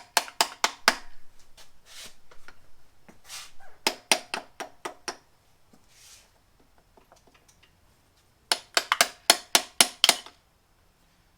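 Light hammer taps on the connecting rod cap to knock it loose from the rod: three quick runs of sharp, ringing metal-on-metal taps, about six to nine in each run, with faint scraping in between.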